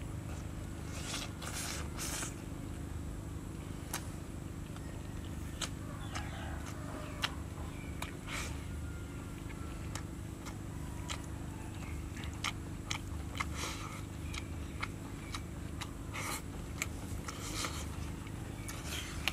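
Close-up mouth sounds of a person eating roasted jackfruit: wet chewing with scattered short lip smacks and clicks every second or two, over a steady low hum.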